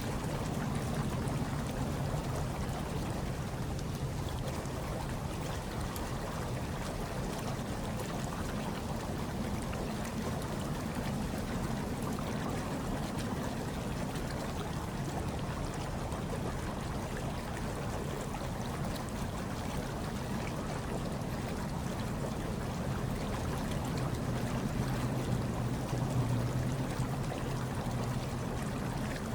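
Hot tub water churning and bubbling steadily, over a low, even rumble.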